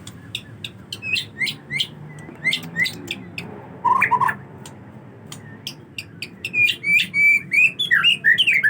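Male white-rumped shama singing: a series of sharp chips and clicks mixed with short whistled notes, a lower double whistle about four seconds in, then a fast, varied run of whistled phrases near the end.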